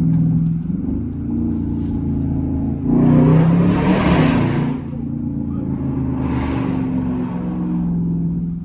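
Straight-piped 5.7-litre Hemi V8 of a 2014 Jeep Grand Cherokee running at speed with a steady exhaust drone. A louder rushing swell comes in about three seconds in and lasts under two seconds, and a smaller one follows around six seconds in.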